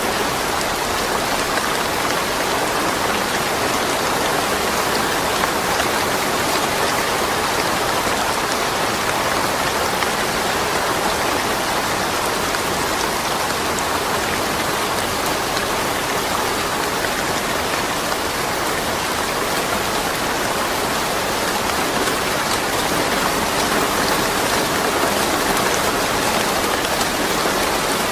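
Steady rain falling, a dense, even patter with no thunder.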